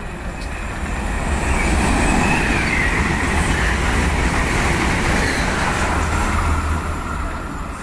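Renfe high-speed electric passenger train passing through a station at speed without stopping. A rushing noise swells as it nears, holds loud for about five seconds while the coaches go by, then fades as it recedes. A high whine drops in pitch about two seconds in.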